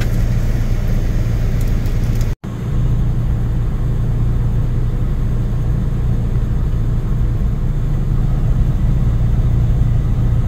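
Steady, loud low rumble of a moving vehicle, broken by a momentary cut about two seconds in.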